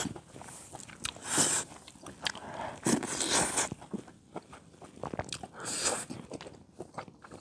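Close-up chewing and biting on chewy cheese-grilled butter clam, in several short noisy bursts with scattered small clicks between them.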